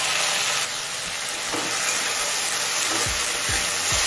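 Potatoes and whole spices sizzling steadily in hot mustard oil in a metal kadai, a wet ginger, green chilli and tomato paste just added; the sizzle drops a little just under a second in. From about three seconds in, a spatula stirs and scrapes against the pan about twice a second.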